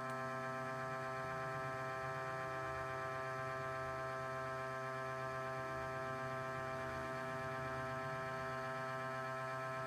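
CNC router spindle running at a constant speed, an even-pitched whine that holds steady throughout, while machining a brass impeller blank.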